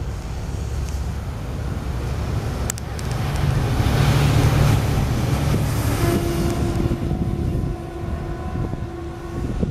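A passing train rumbling, loudest about three to six seconds in, with a single click partway through. A steady tone joins in from about six seconds on.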